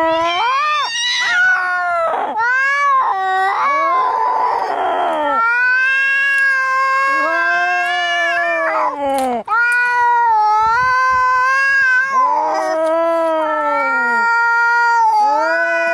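Angry cats yowling and caterwauling, the aggressive howls of a cat standoff: long drawn-out wails that waver up and down in pitch, with a harsh noisy cry about four seconds in.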